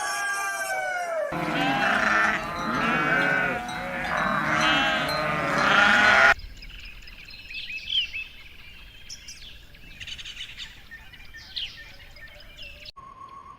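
A rooster's crow trails off, then sheep bleat repeatedly, several voices overlapping, for about five seconds. After a sudden cut come softer bird chirps, and a steady beep-like tone starts near the end.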